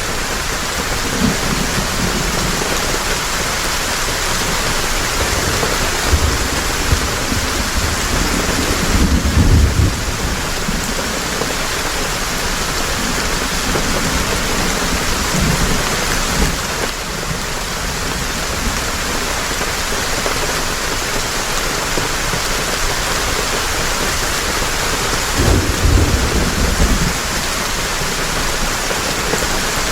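Heavy rain falling steadily, with low rumbles of thunder about nine seconds in and again near the end.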